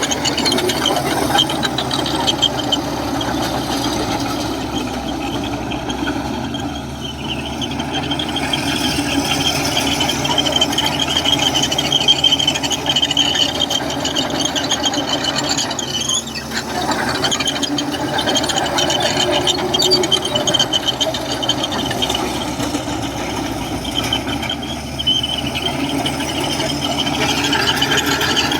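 Komatsu crawler bulldozer working, its steel tracks squealing and rattling over the steady run of its diesel engine.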